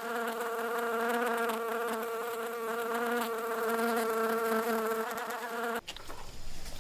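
A flying insect buzzing close by with a steady, slightly wavering pitch, cutting off suddenly near the end.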